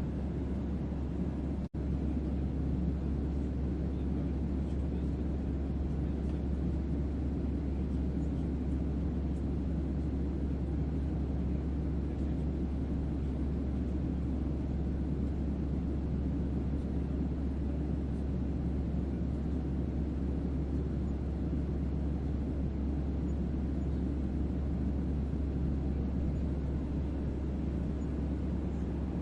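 Steady white-noise ambience with a deep bass hum under a soft, even rush, meant as a starship's onboard hum. The sound cuts out for an instant just under two seconds in.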